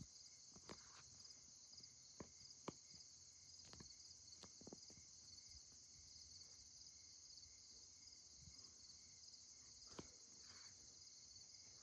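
Faint, steady high chirring of crickets, with a few soft clicks over it.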